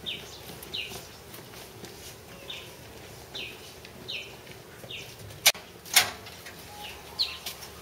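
A bird chirping repeatedly in short, separate calls. A little past halfway come two sharp metallic clacks about half a second apart, the loudest sounds, from the latch of a corrugated sheet-metal gate being worked.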